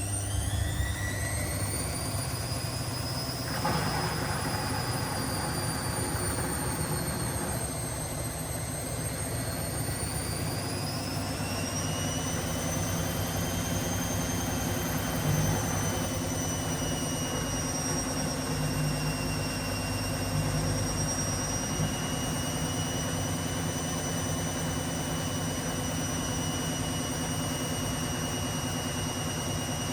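Washing machine spinning: a high motor whine finishes climbing in the first couple of seconds as the drum comes up to speed, then holds, wavering slightly, over a steady hum and rumble from the spinning drum.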